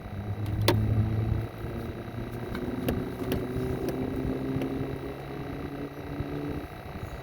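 A steady motor hum with a low, even pitch that drifts slightly and cuts off near the end, with a few light clicks over it.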